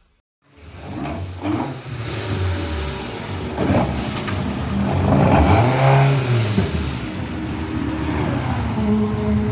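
Car engines at speed on a race circuit, coming in suddenly about half a second in; one engine note climbs and falls again about halfway through as a car accelerates past.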